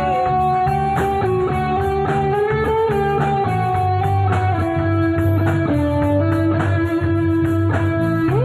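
Live rock band playing an instrumental passage: an electric guitar holds long, bending lead notes over bass guitar and a steady drum beat.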